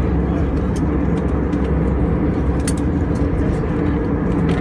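Steady cabin noise inside an Airbus A320 in flight, a deep rushing drone from the engines and airflow, with light scattered rattles from the cabin fittings as the aircraft passes through turbulence.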